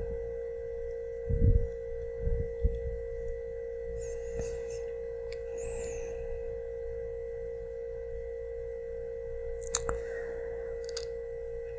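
A steady, unchanging hum on a single pure tone, with a soft low thump or two early on and a few faint clicks near the end.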